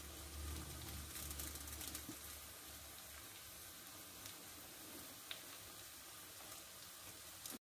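Faint sizzling of a potato omelette frying in a pan, with a low hum for the first couple of seconds and a small click about five seconds in.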